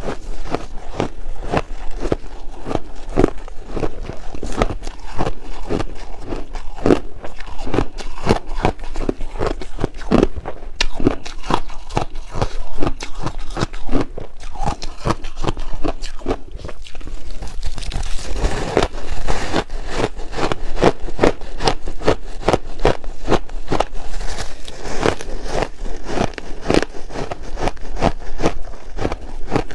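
Chunks of ice being bitten and chewed: a rapid, continuous series of loud crunches and crackles.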